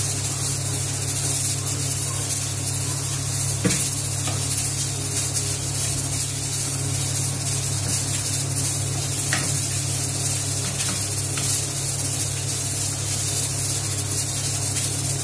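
Onions and meat sizzling in a pot over a gas burner while a wooden spoon stirs them, with a couple of faint knocks of the spoon against the pot. A steady low hum runs underneath.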